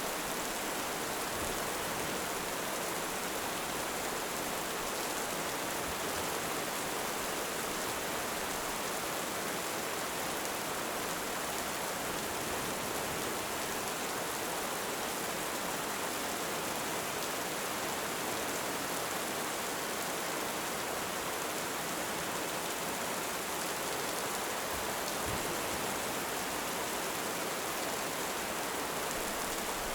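Steady heavy rain, an even hiss with no let-up or swell.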